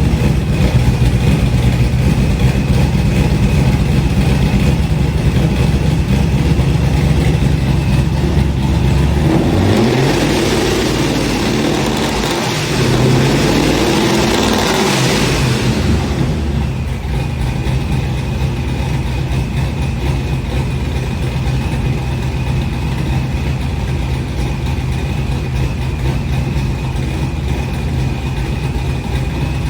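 1997 Camaro SS's 5.7-litre LT1 V8 idling through a freshly fitted GMMG chambered cat-back exhaust. Around the middle it is revved up and back down twice, then settles back to a steady idle.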